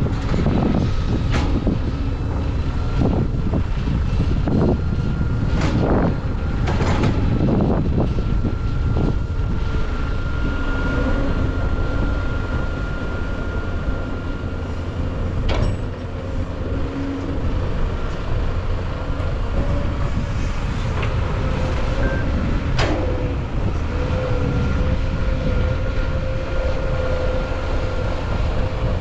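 Heavy earthmoving machinery running steadily with a low engine rumble and a faint steady whine, broken by a few sharp metallic clanks.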